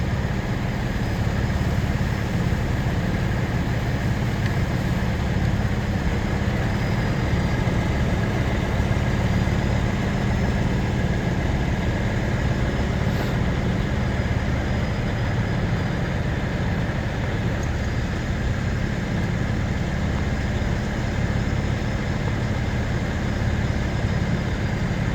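Heavy truck engines idling with a steady low rumble.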